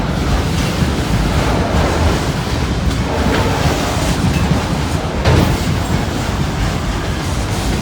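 Freight train cars rolling past close by: a steady loud rumble of steel wheels on rail, with a few clicks from the wheels passing over rail joints.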